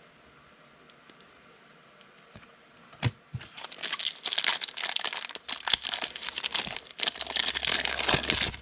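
A foil trading-card pack wrapper being torn open and crinkled: quiet for about three seconds, then a knock and several seconds of loud crinkling and tearing.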